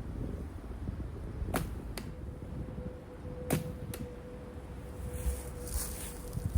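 Two shots from a 37 lb traditional takedown bow, each a sharp snap of the string on release followed about half a second later by a second crack, typical of the arrow striking the target. Wind rumbles on the microphone throughout.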